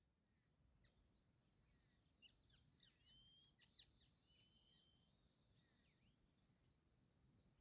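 Faint bird chirps and short whistles, busiest about two to four seconds in, over a quiet steady background.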